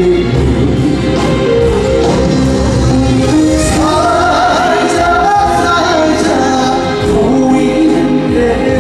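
Live band music with singing: a trot song in concert, with a steady bass and sustained vocal lines.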